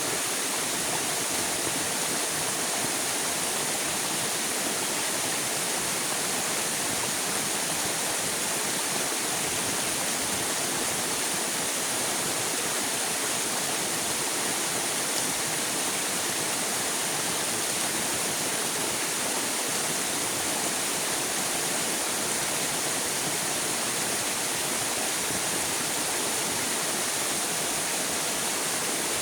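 River water rushing steadily: an even, unbroken hiss of flowing water, bright and hissy rather than deep.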